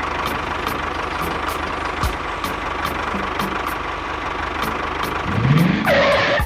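An engine running steadily, then rising in pitch a little after five seconds in as it revs up, and louder just before it cuts off.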